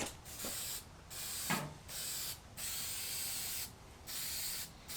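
Aerosol propellant sprayed into a combustion potato cannon's chamber in about six short hissing bursts, each lasting half a second to a second with brief pauses between, as the cannon is charged for a shot.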